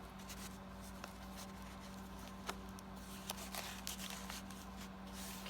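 Faint paper handling, with soft rustles and a few light taps as paper pieces are picked up and placed, over a steady low electrical hum.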